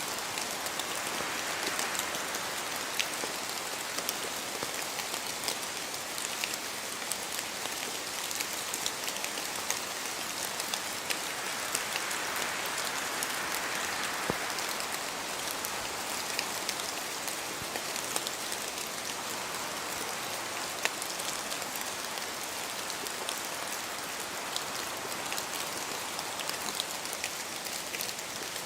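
Steady rain falling in a spruce forest, with many separate drops pattering from the trees and the rush of wind through the branches swelling about halfway through.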